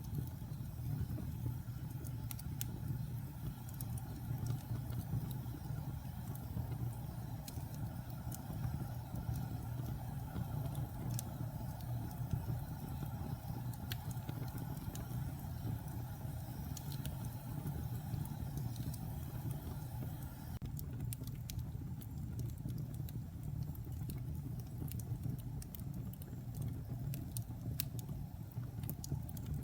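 Wood fire burning in a fireplace: a steady low rumble of the flames with scattered crackles and pops from the burning logs, which come more thickly in the later part.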